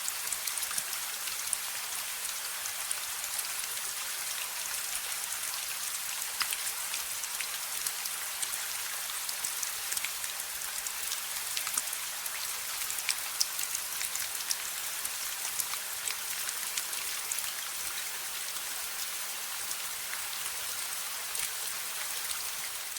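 Steady rain falling on hard surfaces: an even hiss with many scattered drop taps.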